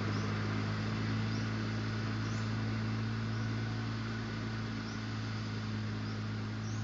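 Ride-on tractor mower engine running at a steady speed, a constant low hum. Faint short high chirps repeat about once a second over it.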